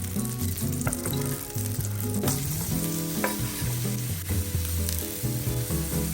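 Food sizzling in a frying pan as it is stirred, with a few sharp clicks of the utensil against the pan.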